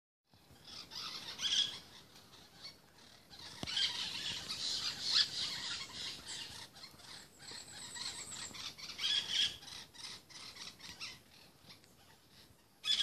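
Pet parrots giving high, squeaky chattering and squealing calls while mating, in several bursts. The bursts are loudest about a second in and again around four to five seconds in.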